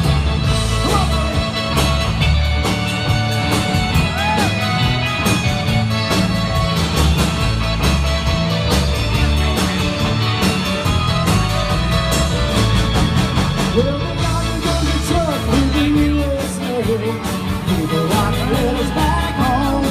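Live Tex-Mex band playing an instrumental break led by a button accordion, over bass and drums with a steady beat.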